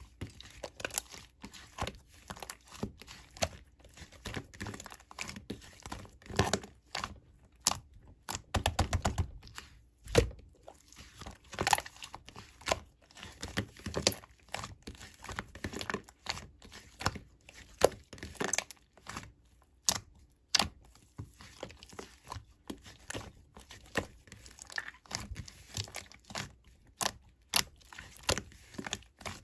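Slime being pressed, poked and mixed by hand, giving a dense, irregular run of sticky clicks and crackly pops.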